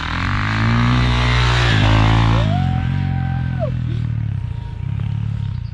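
Kawasaki KX450 dirt bike's 450cc four-stroke single revving up under throttle, then the throttle is chopped about two and a half seconds in and the engine keeps running at a lower, steady pitch. Over it comes a brief held high call.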